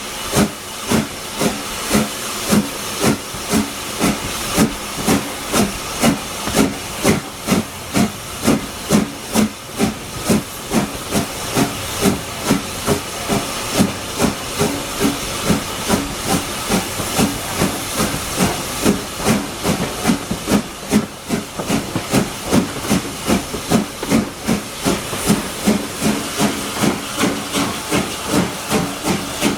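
LSWR S15 No. 506, a two-cylinder 4-6-0 steam locomotive, working a train: a steady, even rhythm of exhaust beats over a continuous hiss.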